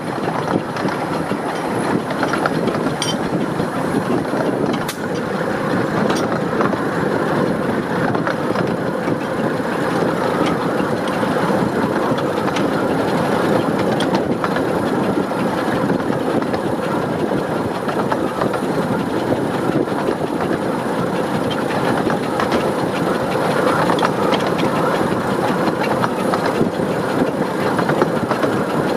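Miniature steam locomotive 'Northern Rock' working hard up a steep 1-in-52 gradient: a steady, dense chimney exhaust with rail and wheel clatter running beneath it.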